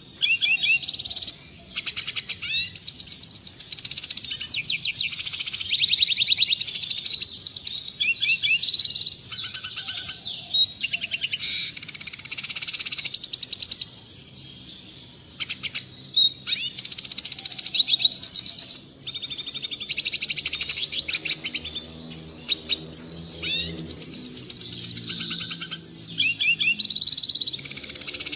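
Red siskin singing a long, rapid, high twittering song of fast trills and chirps, broken by brief pauses.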